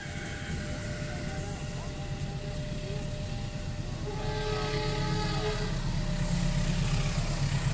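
Rail rumble of trains on the line growing steadily louder as a CC201 diesel-electric locomotive approaches, with a commuter electric train on the next track. A train horn sounds once, a chord of several steady notes held for about a second, about four seconds in.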